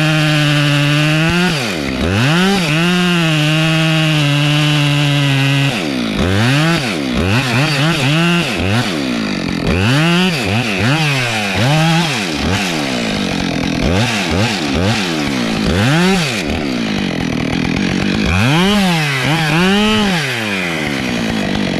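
Chainsaw running loud. It holds a steady speed at first, then its pitch swings up and down over and over, about once a second, as it is revved or loaded in the wood.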